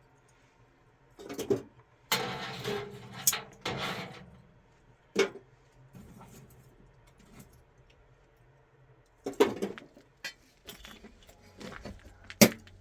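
Irregular clinks and knocks of hard objects being handled, with a longer noisy stretch of handling about two to four and a half seconds in and a few sharp clinks near the end.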